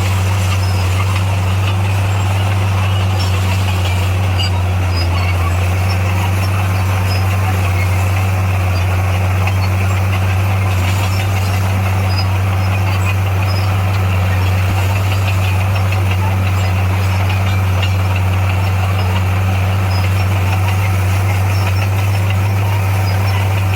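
Heavy diesel engine of an SDLG motor grader running steadily, a constant low hum with no changes in pitch or level.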